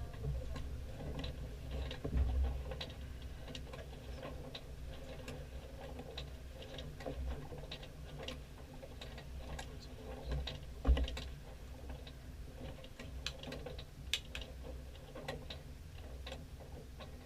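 Sailboat under way: scattered small clicks and creaks from the boat over a steady low rumble, with one louder knock about eleven seconds in.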